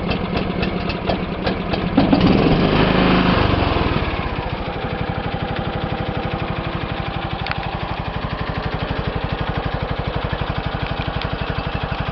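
John Deere lawn tractor's 14.5-horsepower overhead-valve engine cold-started without choke: it turns over in even strokes, catches about two seconds in, revs briefly, then settles into a steady, evenly pulsing idle.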